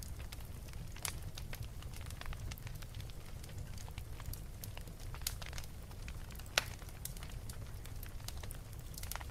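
Wood fire crackling in a fireplace: scattered sharp pops and snaps over a steady low rumble, with one louder pop about six and a half seconds in.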